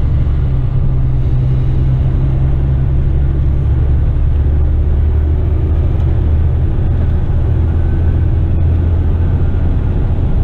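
Western Star tipper truck's diesel engine running steadily as the truck drives, a constant low drone heard from the cab.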